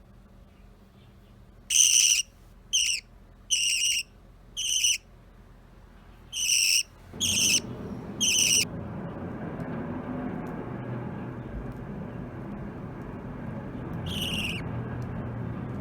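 Budgerigar calling: short, clear chirps, seven in quick succession and one more near the end. About halfway through a steady low rumble starts and continues under the calls.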